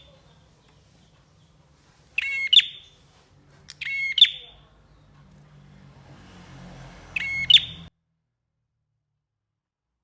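A prenjak (prinia) giving three short, sharp chirping phrases a second or more apart, over a faint low hum. The sound cuts off abruptly about eight seconds in.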